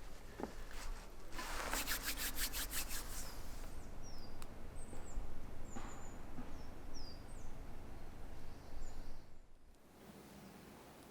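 Outdoor ambience with small birds giving short, high chirps several times. A quick run of rapid clicks or rustles comes near the start, and the background drops to much quieter near the end.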